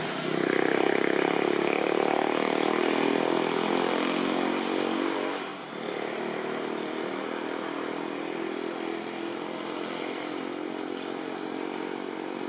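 An engine running steadily, louder for the first five seconds or so, then dropping a little and carrying on.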